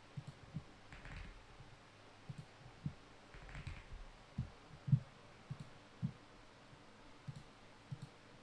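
Faint, irregular soft thumps and clicks, about a dozen, over a quiet room background; the loudest comes about five seconds in.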